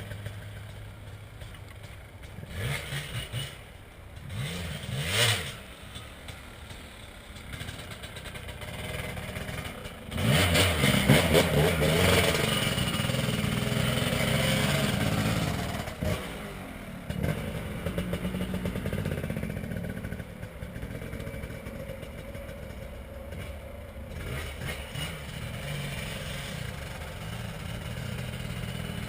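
Dirt bike engine running and revving in short bursts, then held loud at high revs for several seconds about a third of the way in, before settling to a steadier, quieter run.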